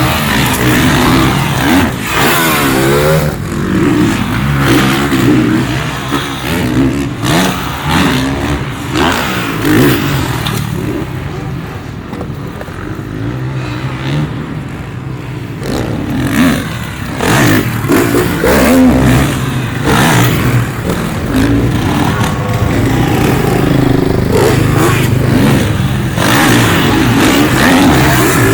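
Several Supercross dirt bikes revving hard, engine pitch climbing and dropping again and again as they accelerate, shift and back off. It eases for a few seconds about halfway through, then builds up again.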